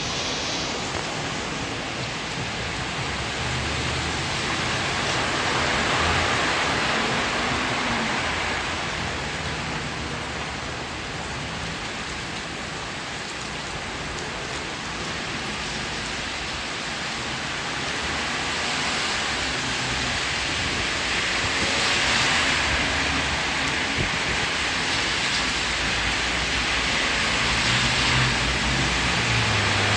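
Typhoon rain and wind: a dense, steady rush of noise that swells and eases in gusts every several seconds.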